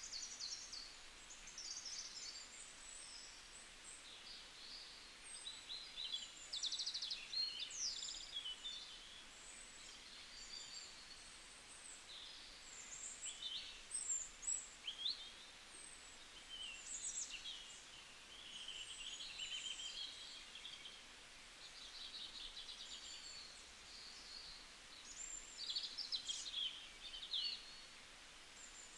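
Small birds chirping and trilling again and again in short high calls, over a faint steady hiss.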